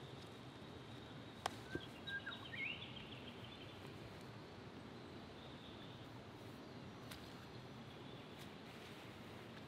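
Faint outdoor bush ambience: a steady low hiss with a short run of rising bird chirps about two seconds in, just after a single sharp click.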